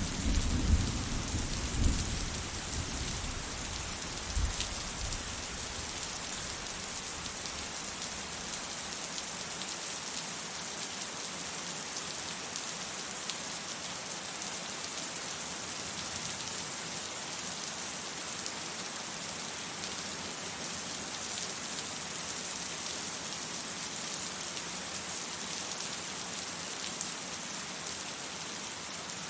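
Steady rain hiss, with a low rumble of distant thunder in the first few seconds that dies away, leaving only the rain.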